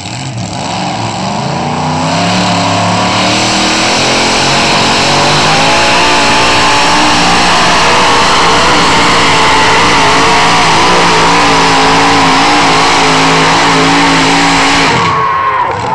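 Competition pulling tractor's engine revving up over the first few seconds and then running loud at full throttle during a pull, its pitch wavering as it labours, before dropping off abruptly about fifteen seconds in.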